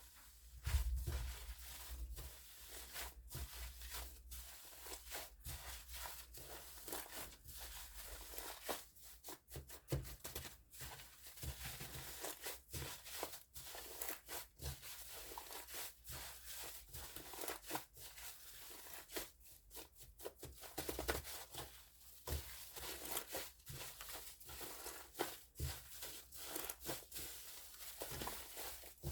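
Hands pressing and stretching fluffy foam slime, giving an irregular run of crackles, little pops and squishes.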